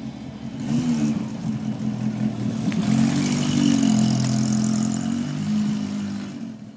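Honda CB400SF's inline-four engine running, its revs rising about a second in. A high, hissing scraping sound rides over it through the middle stretch, the metallic scrape that a failing wheel bearing makes.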